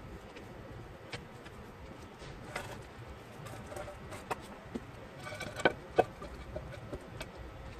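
Scattered metallic clicks and taps of hand tools and bolts against engine parts during an engine teardown, with two louder ringing clinks of metal on metal a little past halfway.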